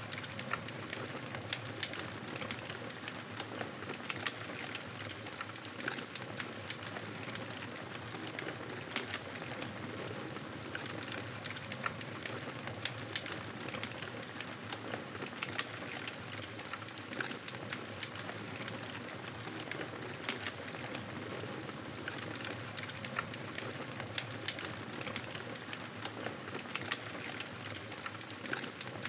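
Campfire burning with a steady hiss and many irregular sharp crackles and pops of wood.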